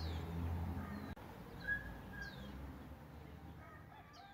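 A bird repeating a short high call that slides downward in pitch, about every two seconds, over a low rumble that stops abruptly about a second in.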